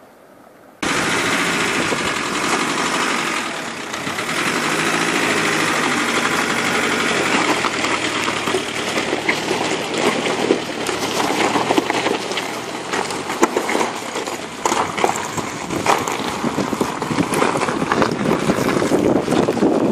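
An SUV's engine running, cutting in suddenly about a second in, with scattered clicks and crackles of tyres over loose stones.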